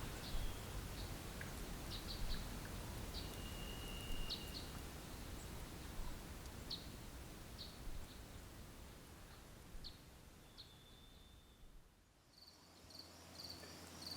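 Faint outdoor ambience of scattered short bird chirps and two thin held whistles. About twelve seconds in it dips almost to nothing, and then a rapid, pulsing insect chirring starts.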